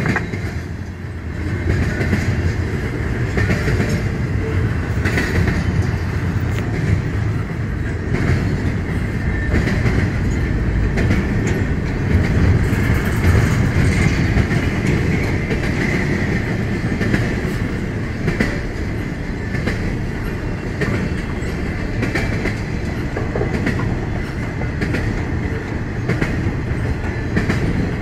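Norfolk Southern intermodal freight train rolling past: a steady rumble of steel wheels on rail with scattered clicks over the rail joints.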